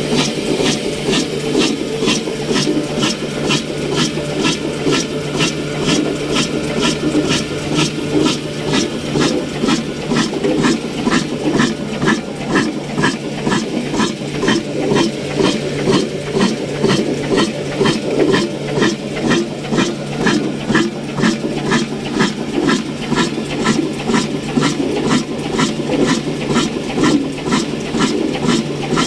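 Old 22/24 HP, 300 rpm diesel oil engine running steadily, with an even beat of about two to three strokes a second.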